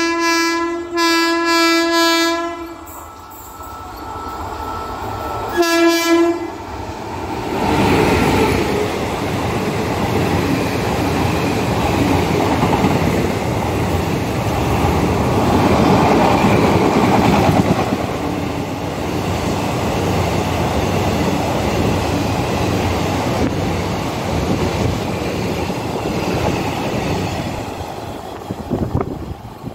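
Locomotive horn of an approaching passenger train sounding a few short blasts, then one more short blast about six seconds in. The coaches then pass at speed, a steady loud rumble of wheels on rail that fades away near the end.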